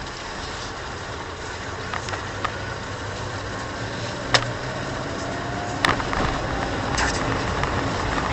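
Car engine and road noise heard from inside the cabin as the car drives along, a steady low hum with a few scattered sharp clicks.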